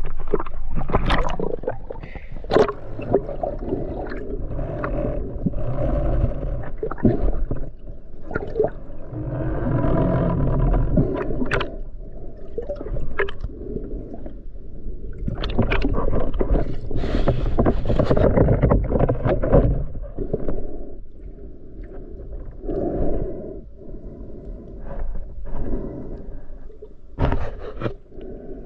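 Muffled water sloshing and gurgling around an action camera at or under the water surface, with irregular knocks and scrapes against the camera body, louder in the middle and quieter near the end.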